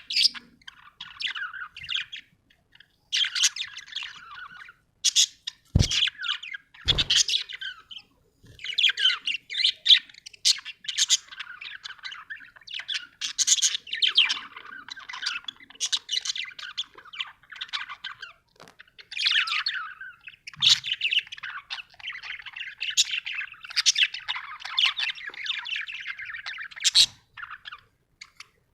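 Budgerigar chirping and warbling in quick, near-continuous runs of high chirps. Two short sharp knocks come about six and seven seconds in.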